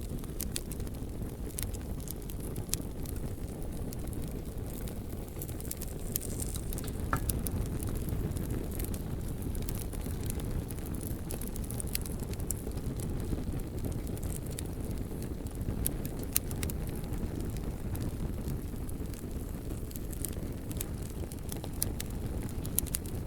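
Bonfire of burning logs: a steady low rumble of flames with irregular, scattered sharp crackles and pops from the wood.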